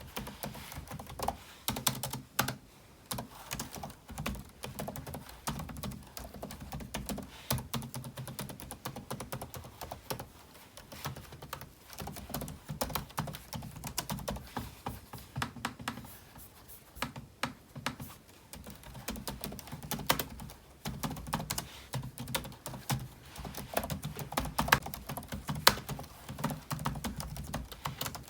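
Typing on a computer keyboard: a continuous run of rapid keystroke clicks, with short pauses about two and a half seconds in, around ten seconds in and again around seventeen seconds in.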